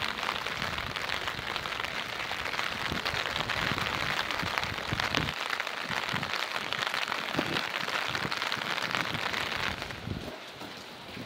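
Steady rain, a dense patter of many small drops, which turns quieter and duller near the end.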